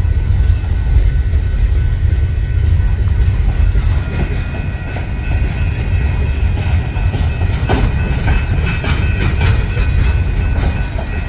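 Freight train's hopper cars rolling past at low speed with a steady low rumble, the wheels clicking over rail joints, most clearly from about seven and a half seconds in.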